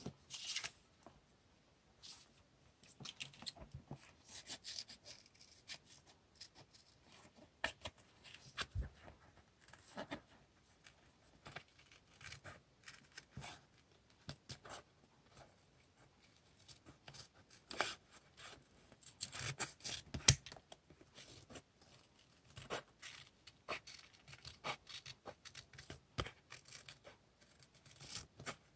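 Diary-decorating handwork with paper and tape: short, irregular snips, tears and rustles of paper and tape, with small clicks and taps, at a low level.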